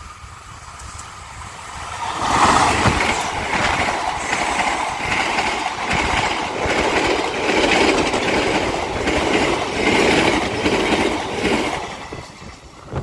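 Passenger train passing close by: the rumble builds and turns loud about two seconds in as the train reaches the microphone, then the coaches' wheels clatter over the rail joints in an even rhythm, fading near the end as the train moves away.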